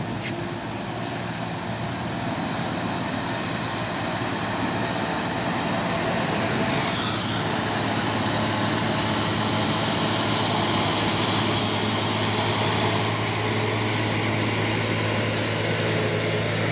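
Heavy truck diesel engine running steadily under load, a continuous low drone that grows a little louder partway through.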